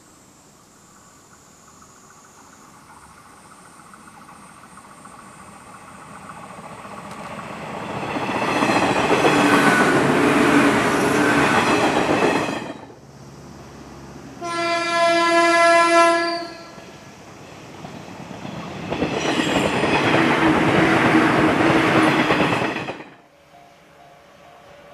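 A JR 115-series electric multiple-unit train passing close by, its rumble and wheel-on-rail noise building up to loud. A train horn sounds one blast of under two seconds about halfway through. Then another loud passing rumble follows and cuts off abruptly near the end.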